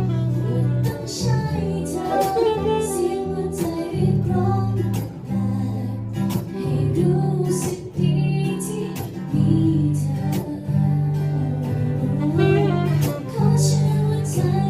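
A band playing an instrumental passage of a Thai pop song, with sustained melody lines over a bass line and sharp drum hits.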